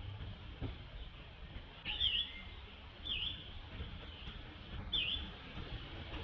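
A bird's short chirps, three in a few seconds, each quickly dipping and rising again in pitch, over a steady low outdoor background noise.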